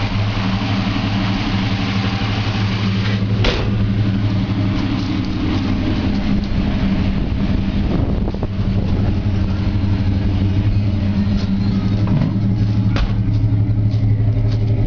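1966 Ford Falcon's 200 cubic-inch inline six idling steadily through split Hooker headers and a dual exhaust with 2.5-inch Flowmaster 40 series mufflers. The note wavers briefly about eight seconds in.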